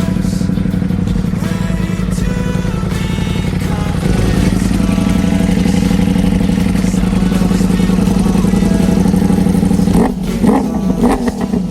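Ducati Panigale V4 S's V4 engine running at steady high revs, stepping up louder about four seconds in. Near the end it breaks into quick, irregular throttle blips.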